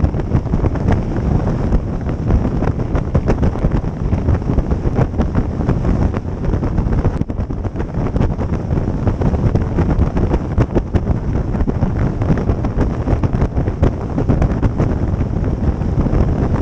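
Wind buffeting the microphone on a moving boat, a loud, steady rush with the run of the boat and water beneath it.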